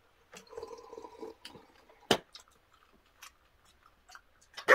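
Close mouth sounds of eating and drinking: chewing and gulping of spicy braised chicken and beer. One sharp click or knock comes about two seconds in, and more come near the end.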